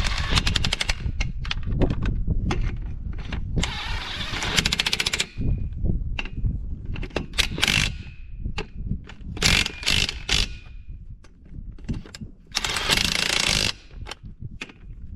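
Impact wrench in about five short bursts of rapid hammering, tightening the wheel lug nuts.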